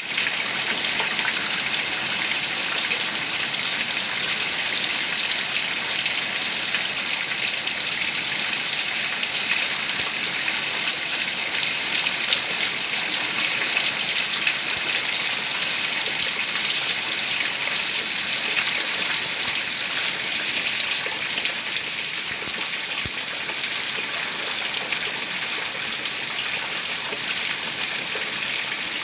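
Heavy rain falling steadily, a dense hiss with many fine drop ticks.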